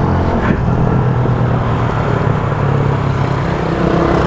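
Motorcycle engine running steadily while riding, with a constant rush of wind noise over the microphone.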